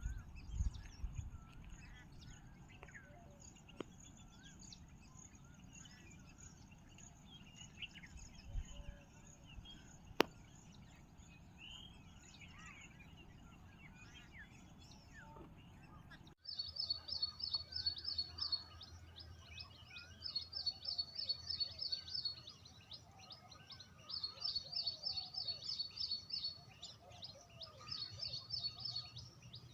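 Wild birds chirping and calling in scattered short notes, with one sharp click about ten seconds in. After a cut about halfway through, a bird's rapid, high-pitched, repeated call comes in bouts of a few seconds each over a steady low hum.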